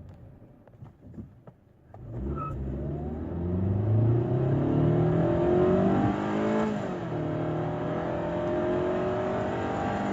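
2017 Hyundai Sonata Sport's 2.4-litre four-cylinder engine accelerating hard from a standstill in a 0-60 mph run. It starts about two seconds in and climbs in pitch, drops with an upshift near seven seconds, then climbs again.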